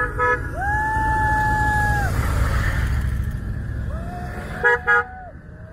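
Horns honking over the low rumble of motorcycle engines: a quick double beep, then a horn held for about a second and a half. Near the end come another quick double beep and a second held horn.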